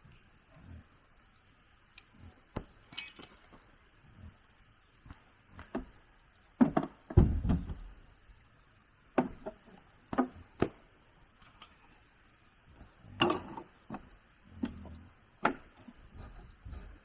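Irregular knocks and clicks, a few at a time, with a heavier thud about seven seconds in and another cluster near thirteen seconds, over a faint steady hiss.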